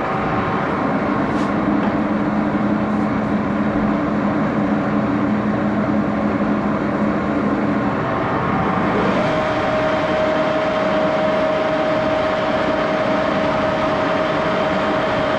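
Axelson engine lathe running steadily at a reduced spindle speed of about 628 rpm, a geared machine hum. About nine seconds in, the lower tones drop away and a higher steady whine with more hiss takes over.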